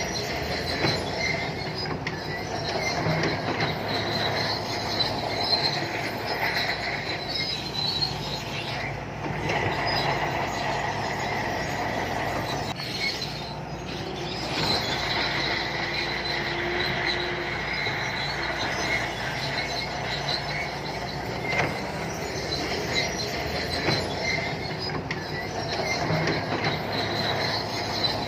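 Shantui crawler bulldozer working: the diesel engine runs steadily under the high-pitched squeal of its steel tracks, with a brief lull about halfway through.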